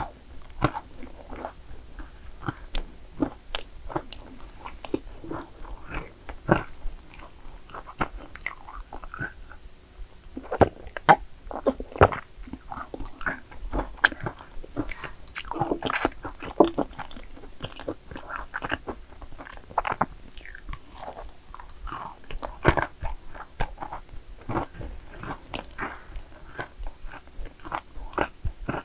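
Close-miked eating of yakgwa cookies: irregular crisp crunches and steady chewing, with wet mouth sounds between bites.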